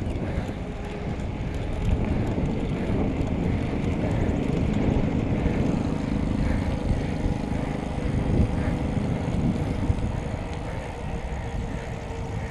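Steady low rumble of wind on the microphone and road noise while riding a bicycle, swelling a little in the middle before easing off.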